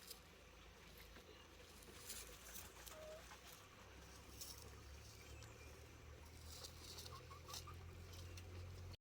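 Near silence: faint scattered clicks and rustles, with a few brief faint chirps.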